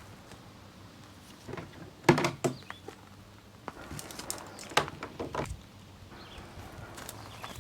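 A string of irregular knocks and clunks, the loudest about two seconds in and a cluster about halfway through, with a faint short bird call.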